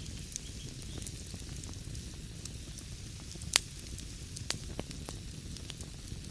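Wood fire crackling in a fireplace: a steady low rumble and hiss with scattered sharp crackles, and one loud pop about three and a half seconds in.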